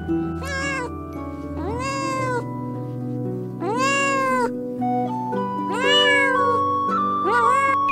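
A cat meowing five times, each meow rising and then falling in pitch; the first and last are short and the middle three longer. Background music plays underneath.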